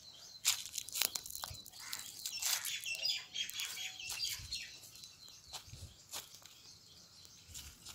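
Birds chirping amid scattered clicks and rustling, busiest in the first half and thinning out toward the end.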